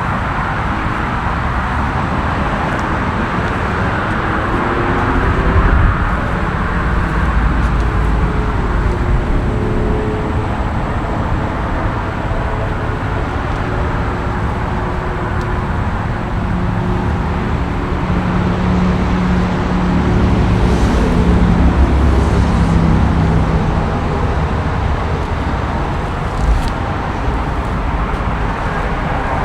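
Car engine running under way with steady road and tyre noise; the engine note drifts gently up and down, swells a little about two-thirds of the way through, and there is one short sharp knock near the end. The engine is taken to be the Aston Martin DBX S's 4.0-litre twin-turbo V8.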